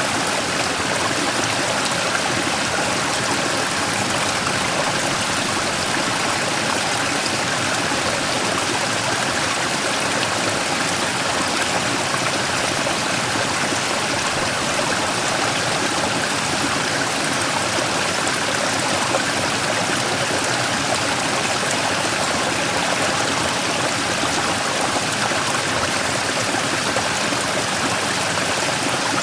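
Mountain stream splashing over a large rock in a small waterfall: a steady, unbroken rush of water.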